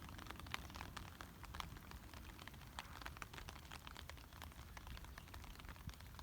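Light rain: scattered raindrops ticking irregularly and quietly, over a steady low rumble.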